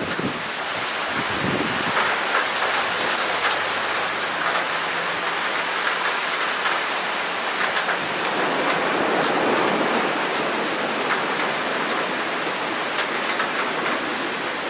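Rain falling steadily, with frequent sharp ticks of individual drops striking.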